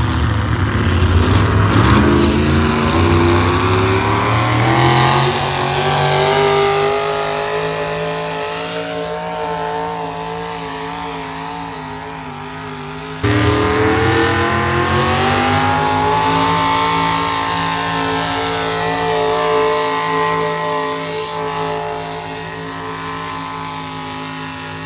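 A pulling vehicle's engine running hard. It rises in pitch as it sets off, then holds a high, steady note while slowly getting quieter as it pulls away. About halfway through it cuts suddenly to another run that starts loud and fades the same way.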